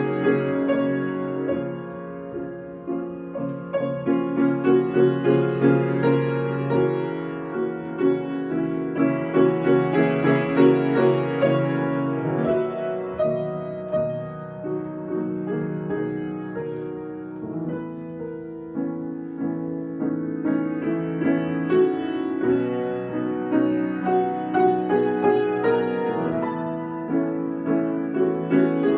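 Solo piano improvisation: chords and runs of notes that swell and ease in loudness phrase by phrase, growing louder a few seconds in and easing off in the middle stretch.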